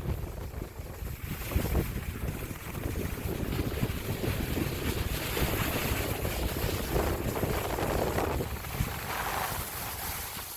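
Wind buffeting the microphone with an irregular low rumble, under a rushing hiss that swells between about five and eight seconds in.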